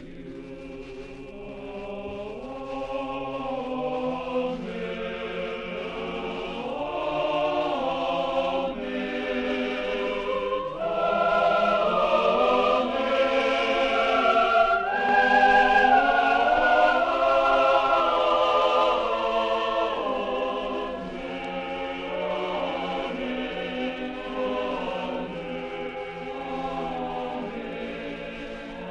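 A choir singing held chords, swelling steadily to a loud climax about halfway through and then growing softer.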